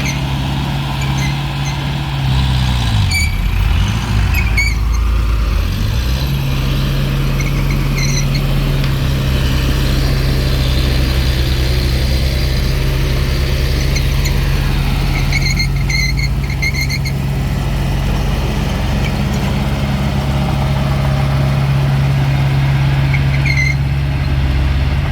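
Diesel engine of heavy earthmoving machinery running steadily under load. Its speed dips and comes back up about three to six seconds in, with a few short high squeaks scattered through.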